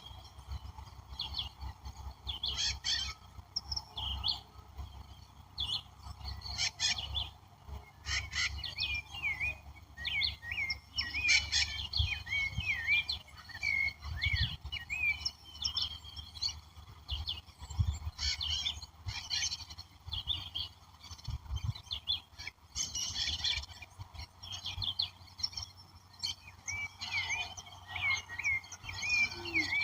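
Several wild birds calling and singing at once, with runs of short repeated chirps and scattered sharper calls, over a steady low rumble.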